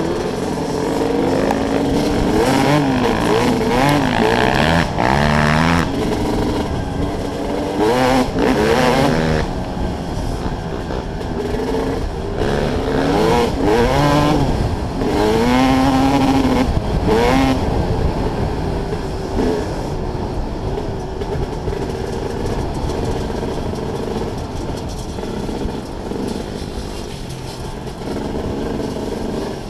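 Dirt bike engine under the rider, revving up and dropping back again and again through the gears over the first half, then running at a steadier throttle near the end.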